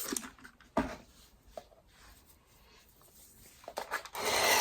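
Quiet handling sounds of a cleaning cloth on a stick vacuum's brush head: a sharp click about a second in, faint rustling, and a short rushing hiss near the end.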